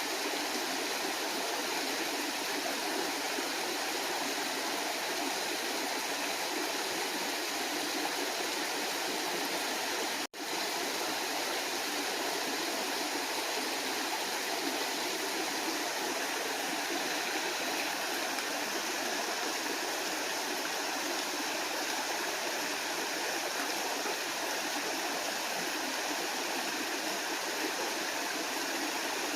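Waterfall rushing with a steady, even roar of falling water. It cuts out for a split second about ten seconds in.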